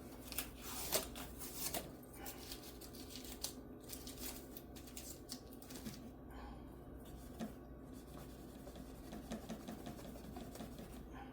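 Small clicks and scrapes of tools and parts being handled during guitar repair work, busiest in the first two seconds, over a steady low hum.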